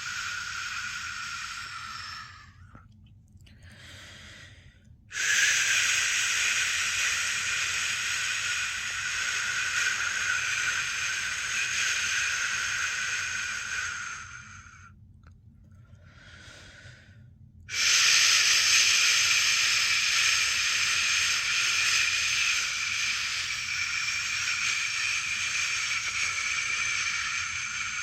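A person's long 'shhh' shushing to settle a newborn baby to sleep, a steady hiss held for several seconds at a time. One shush ends about two seconds in, a second runs from about five to fourteen seconds, and a third starts at about eighteen seconds and carries on. Faint in-breaths fill the short gaps between them.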